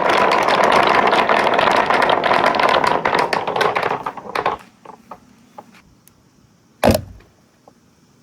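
Marbles rolling and clattering down a marble run's stainless steel track, a dense rattle with a steady ringing tone that dies away about four and a half seconds in, leaving a few scattered clicks. A single sharp knock near seven seconds.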